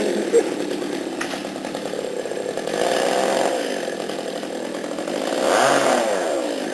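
Chainsaw running in bursts, its engine pitch rising and falling with the throttle. It gets louder about three seconds in and again near the end.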